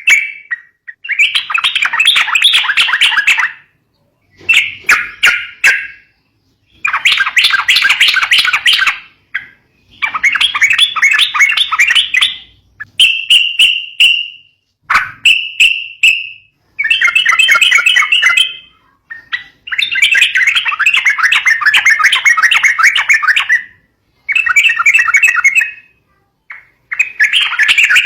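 Yellow-vented bulbul (trucukan) song: loud, rapid, chattering phrases one to four seconds long, repeated with short gaps, with two brief clear whistles about halfway through.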